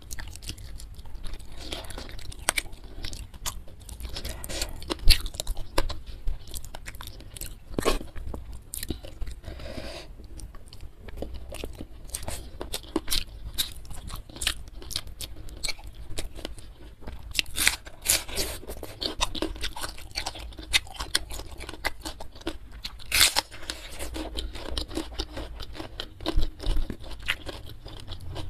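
Close-miked chewing and crunching of food in a person's mouth, with many short, sharp crisp clicks as it is bitten and chewed, a few louder crunches among them.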